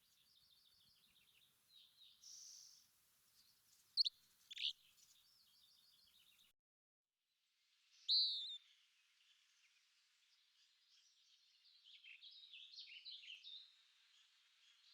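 Songbirds chirping and calling: a run of quick repeated chirps with two loud, sharp downward-sweeping calls about four seconds in. The sound cuts off abruptly just after six seconds and is silent for about a second, then a loud call and a rapid, varied song follow.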